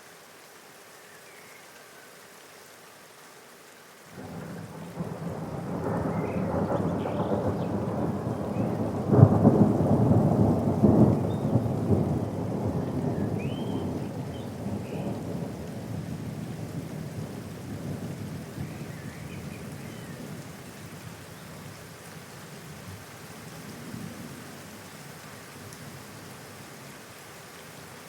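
Steady rain, then a few seconds in a peal of thunder breaks in. It rumbles, peaks with a sharp crack about a third of the way through, and slowly rolls away under the continuing rain.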